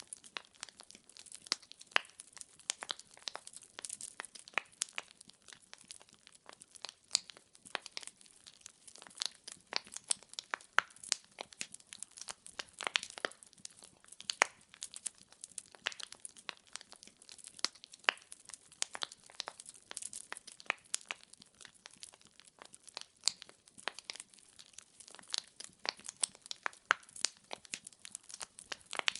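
Burning firewood crackling: an unbroken stream of irregular small pops and snaps, several a second.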